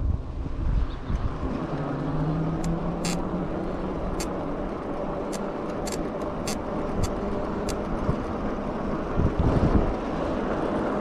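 Riding noise of a fat-tire e-bike going up a hill on asphalt: steady wind and tyre rumble, a brief low hum about two seconds in, and a scattering of sharp clicks through the middle.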